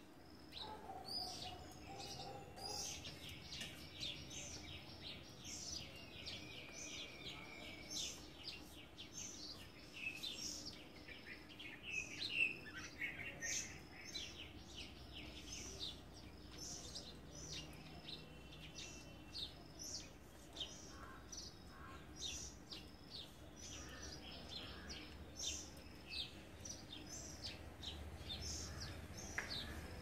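Wild birds chirping and calling: many short, high chirps one after another, with a few brief whistled notes mixed in.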